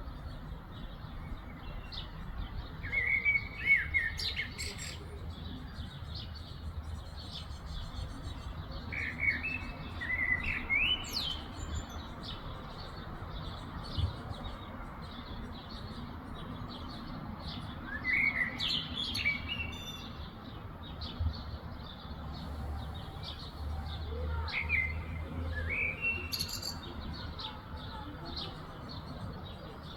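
Songbird singing short phrases of about two seconds, four times, each ending in quick upward sweeps, over a background of faint continuous chirping from other birds and a steady low rumble.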